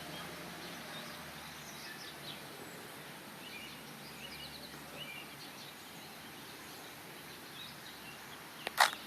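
Steady outdoor background noise with scattered faint bird chirps, and one sharp click near the end, the loudest sound.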